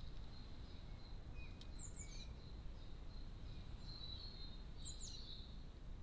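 Two faint, high, quick chirps from a small bird, each a short falling pair of notes, about two seconds and five seconds in, over a steady low background rumble.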